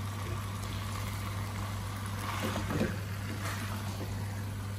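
Chicken, bell peppers and sweetcorn frying in a wok over a high gas flame, stirred with a wooden spatula, giving a steady even sizzle over a constant low hum.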